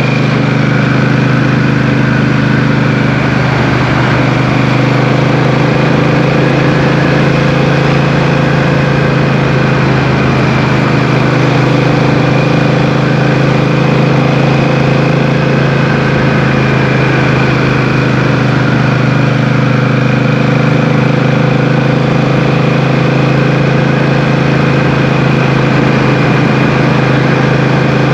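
Motorcycle engine running at a nearly constant speed, its note holding steady with only slight drifts in pitch, over a steady hiss of wind and road noise.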